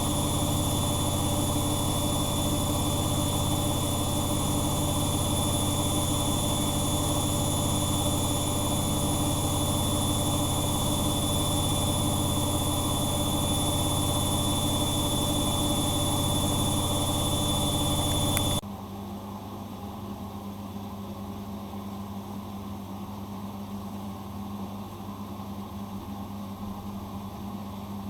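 Bosch Maxx Advantage WFCX2440 washing machine running steadily with a low hum and a high whine. About eighteen seconds in, the sound drops abruptly to a quieter low hum.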